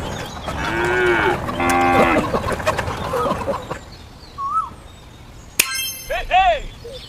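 A cow mooing twice, two short pitched calls in quick succession. A sharp click and a few shorter, higher calls follow near the end.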